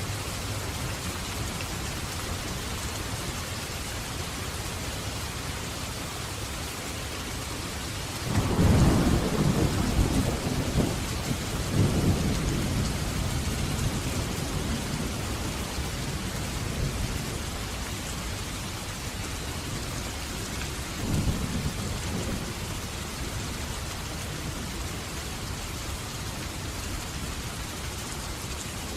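Steady rain with thunder: about a quarter of the way in a deep roll of thunder breaks out and rumbles on in several swells for some seconds, and a shorter, weaker rumble follows past the middle, while the rain keeps up throughout.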